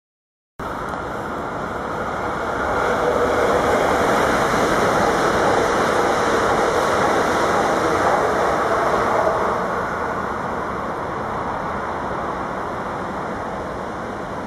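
Sprinter Light Train electric multiple unit passing close by: a steady rush of wheel and rail noise. It cuts in abruptly after a brief silence, swells a couple of seconds in, and eases after about ten seconds.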